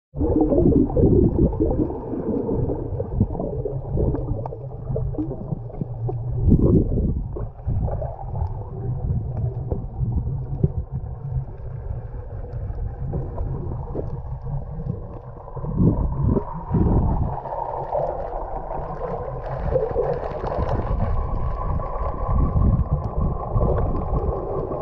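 Muffled water gurgling and sloshing, with an uneven low rumble and scattered dull knocks.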